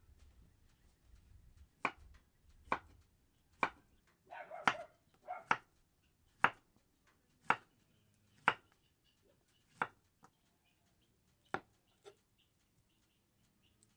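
Chopping: a run of about ten sharp strikes, roughly one a second, thinning out toward the end, with a brief noisier scrape between the third and fourth strikes.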